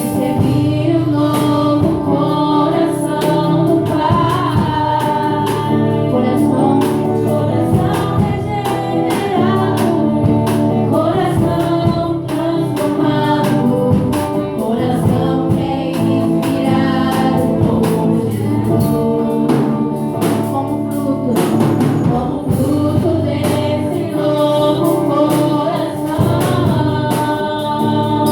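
Gospel music: a group of voices singing together over instruments with a steady beat.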